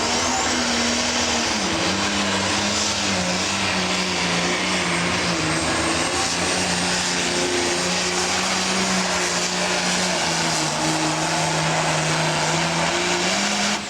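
Turbocharged diesel engine of a John Deere pro stock pulling tractor running flat out under load while pulling the sled. Its pitch sags slowly lower as the load builds, and the sound cuts off at the end as the run finishes.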